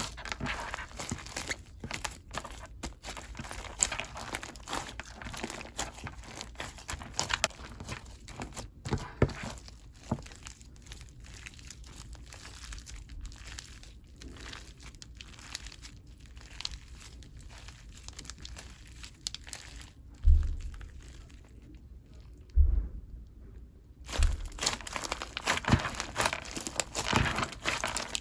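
Fluffy, soft clay slime being squished and stretched by hand, making irregular sticky crackling and crinkling sounds. Three dull bumps come about two-thirds of the way through.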